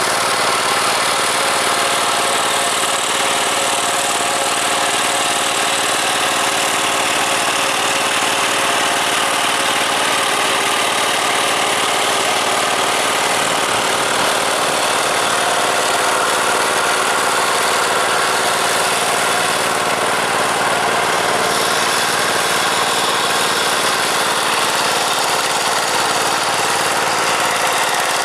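Tractor diesel engine running steadily at an even pitch.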